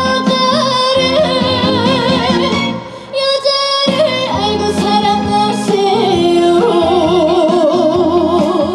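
Live trot music: a woman sings held notes with heavy vibrato over band accompaniment. The music briefly thins and drops in level about three seconds in, then comes back in full.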